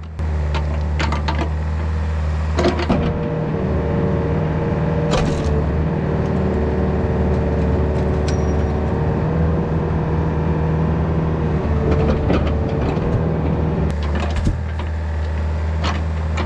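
Yanmar VIO50 mini excavator's diesel engine running steadily under load as the machine works to pull a power pole out of the ground. A steady whine runs through the middle seconds, with a few short knocks along the way.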